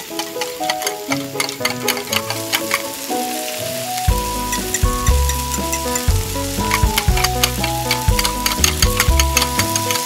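Chopped shallot, garlic and then tomato sizzling as they fry in oil in a miniature steel wok, with a small metal spoon stirring and clicking against the pan. Background music with a run of short notes plays over it, with a bass line coming in about four seconds in.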